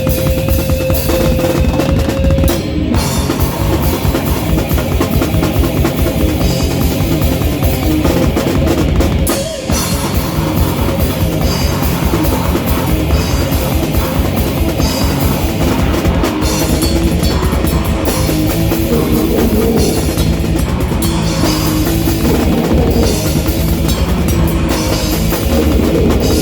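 Live rock band playing loud, with the drum kit and bass drum to the fore and a dense, driving beat; the sound drops out briefly about nine and a half seconds in.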